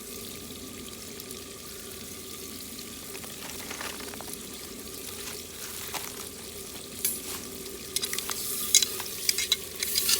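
Food sizzling in hot oil in a cooking vessel over a wood fire, with a steady frying hiss. From about two-thirds of the way in, sharp crackles and pops grow denser and louder.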